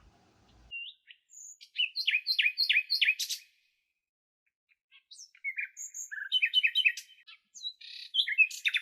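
Bird calls: a run of short, sharp, falling chirps repeated several times, a pause of about two seconds, then more chirps ending in a fast trill near the end.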